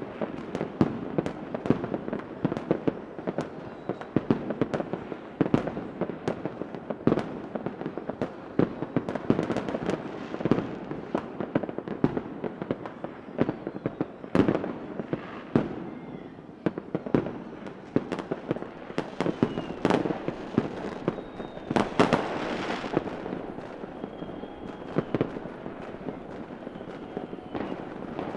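Fireworks going off in a dense, irregular barrage of bangs and crackles, with a few faint whistles in the second half.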